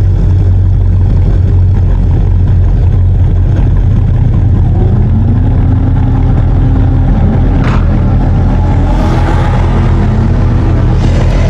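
Exhaust of a Pontiac G8 GXP's supercharged LS3 V8, heard from the rear plate, running with a loud, steady deep rumble. A tone rises and then holds about five seconds in, with a few more rising tones near the end.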